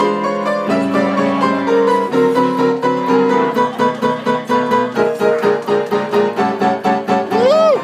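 Solo piano playing an instrumental break between sung verses: held chords at first, then from about three and a half seconds in a run of quick, even notes at about four a second.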